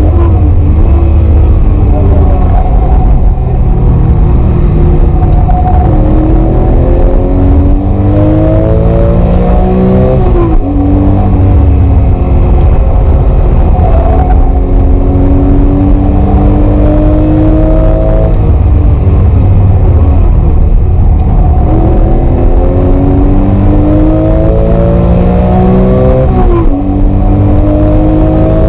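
Porsche 996 GT3's naturally aspirated flat-six engine, heard onboard at full load: the pitch climbs in long sweeps as the car accelerates, breaking off with sudden drops about ten seconds in and near the end at gear changes.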